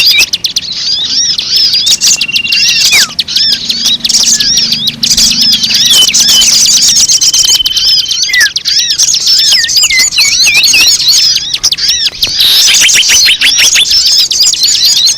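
A dense chorus of many small birds chirping over one another: rapid, repeated arching chirps with a couple of short, steady whistles, a mixed bird-call recording used as a lure (pemikat).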